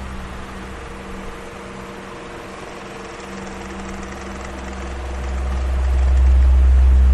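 Electric fan running steadily, a whooshing hum with a low rumble. The rumble fades through the first few seconds and swells back up near the end.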